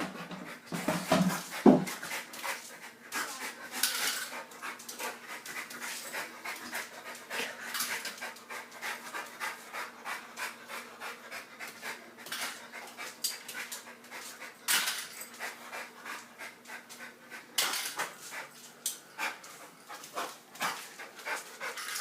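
A dog panting hard in quick, rhythmic breaths.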